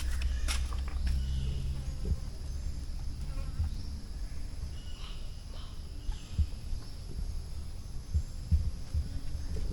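Jungle insects making a steady high buzz, with scattered dull footsteps of someone walking.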